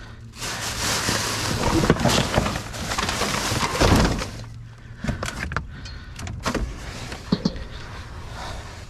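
Rummaging through discarded junk: a few seconds of loud rustling and scraping, then scattered knocks and clunks as items are moved about.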